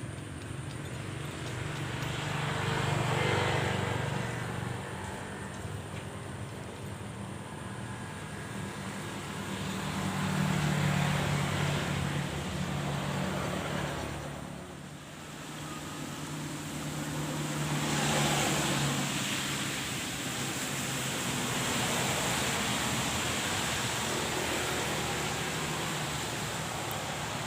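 Road vehicles passing by one after another, each engine hum swelling and fading, over a steady outdoor hiss.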